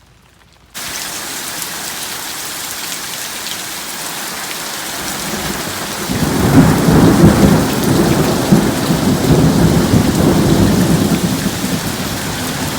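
Thunderstorm: steady heavy rain that starts abruptly just under a second in, with a long low roll of thunder building about six seconds in and then easing off.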